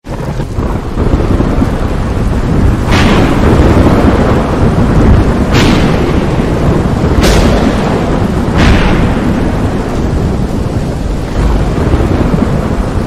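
Thunderstorm: steady rain with rumbling thunder, and four sharp cracks of thunder between about three and nine seconds in, each trailing off into rumble.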